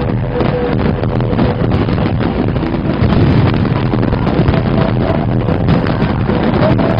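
Aerial fireworks going off in a dense barrage: a continuous rush of overlapping crackles and bangs.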